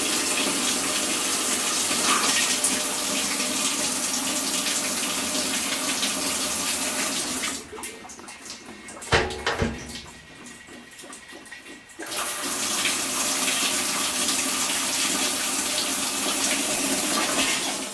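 Washing machine in test mode filling through its water inlet valve: a steady rush of incoming water. It stops about seven and a half seconds in, there is a single click, and the water starts again about four seconds later, stopping just before the end.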